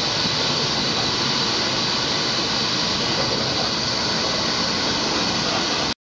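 Steady rush of wind and running noise heard from an open window of a moving train carriage, an even roar with no beat of wheels or exhaust in it. It cuts off suddenly at the very end.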